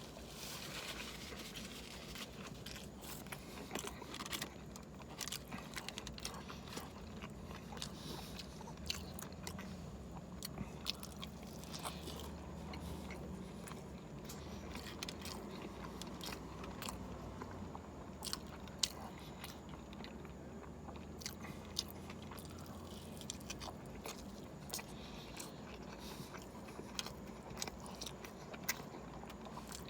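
A person chewing and biting through a stacked cheeseburger at speed, with frequent small sharp clicks from the mouth and food, over a steady low hum.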